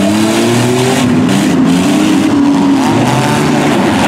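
Several minivan engines revving hard at once, their overlapping pitches rising and falling as the vans push and grind against one another.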